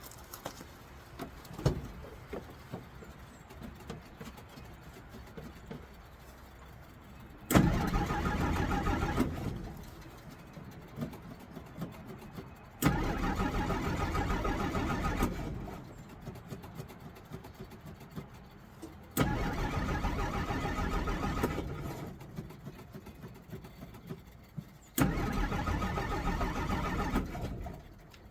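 A 1963 Jeep Gladiator being cranked over by its starter four times, each try lasting about two and a half seconds and starting abruptly, with short quiet gaps and small clicks in between. The engine is a hard starter that won't catch and stay running.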